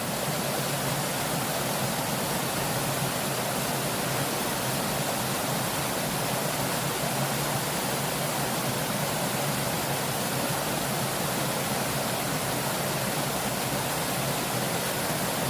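Fast-flowing river water rushing steadily, an even roar with no breaks.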